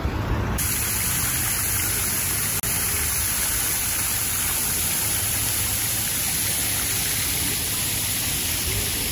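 Water fountain with water spilling down upright glass panels into a shallow pool: a steady, even splashing rush that starts about half a second in.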